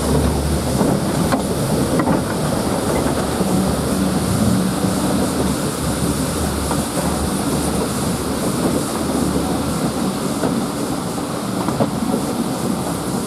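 Train hauled by a GWR Prairie steam tank locomotive running along the line: a steady rumble of carriage wheels on the track, with a few faint clicks.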